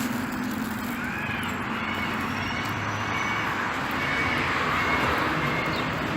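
Steady rain falling, with short rising-and-falling calls repeating over it about once a second.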